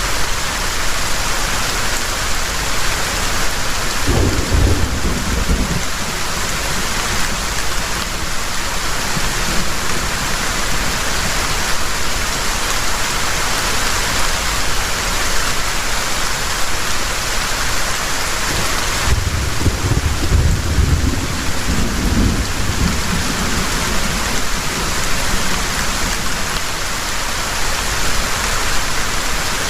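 Heavy rain pouring steadily, with two deep rolls of thunder: a short one about four seconds in and a longer one about twenty seconds in.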